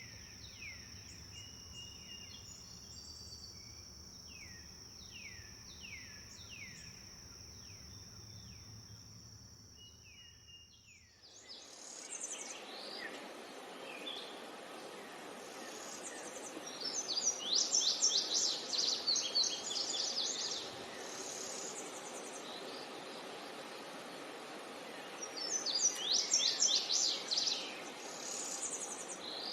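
Forest ambience with birds. At first a steady high insect drone with repeated short downward-sweeping bird chirps; about a third of the way through, the scene changes to a steady rushing hiss with two loud bursts of fast, trilling birdsong.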